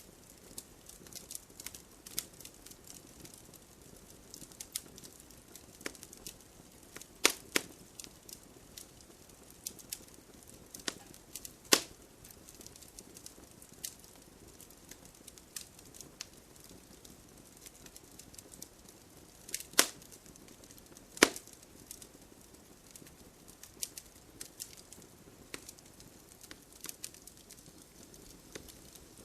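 Wood fire crackling: irregular snaps and pops of burning wood over a soft hiss, with a few louder pops standing out.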